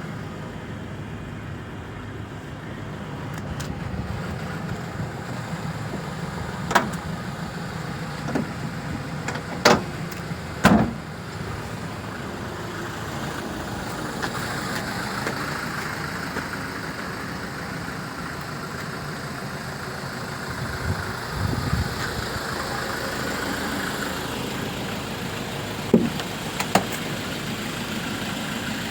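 Land Rover Defender 110's 2.2-litre four-cylinder diesel idling steadily, with several sharp knocks over it, two close together about ten seconds in and two more near the end.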